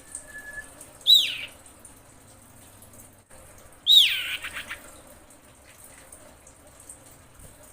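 Female common iora calling to a male. Two loud descending whistled calls about three seconds apart, the second longer and trailing off in a few short notes.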